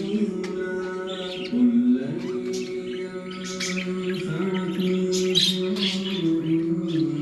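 Birds chirping and squawking in short, scattered calls over background music of long held low notes that change pitch every second or two.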